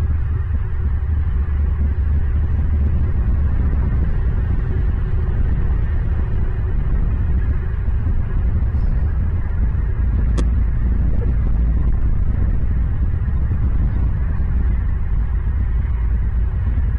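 A steady low rumble with a faint hiss above it, and one sharp click about ten and a half seconds in.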